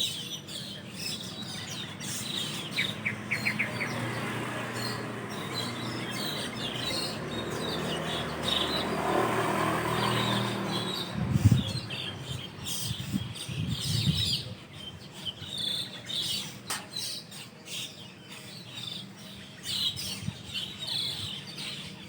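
A flock of Asian glossy starlings chirping busily from a roost tree. A low steady hum runs under the first half, and a few loud low thumps come about halfway through.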